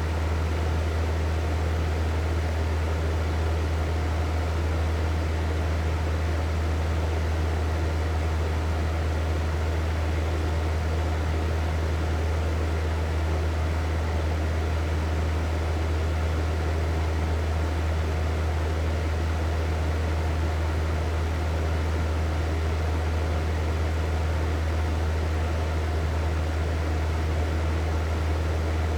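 Hair dryer running steadily: an even rush of air over a low motor hum.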